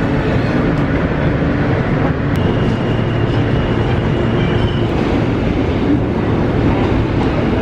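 Loud, steady mechanical rumble of vehicle noise, with a thin high whine for a couple of seconds in the middle.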